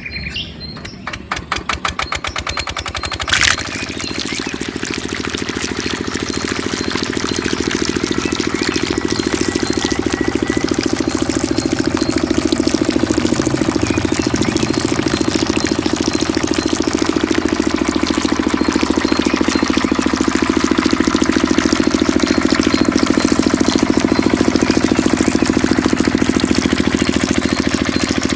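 Small diesel engine being cranked over in rapid even strokes, catching with a sharp bang about three seconds in, then running steadily and building slightly in loudness.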